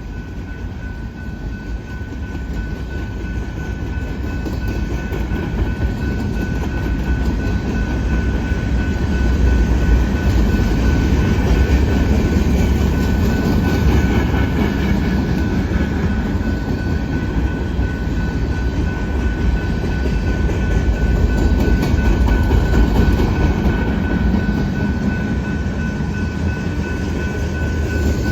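Cars of a Canadian Pacific manifest freight train rolling slowly past, a continuous rumble of wheels on rail that grows louder over the first ten seconds, with a steady high-pitched tone running over it.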